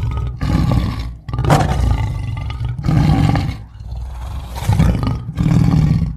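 Lion roaring: a series of about six deep, grunting roars, one after another with short pauses between them.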